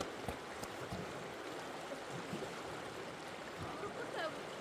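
Steady rushing of water, with a few light knocks in the first second and one more later.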